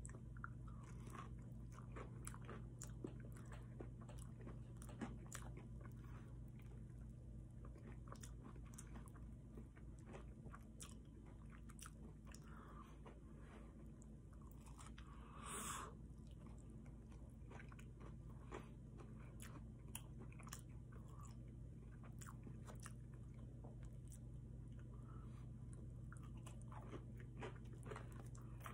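Chewing and biting of fried breaded chicken tenders with mashed potatoes, many small crunchy clicks throughout over a low steady hum, with one short, louder noise a little past halfway.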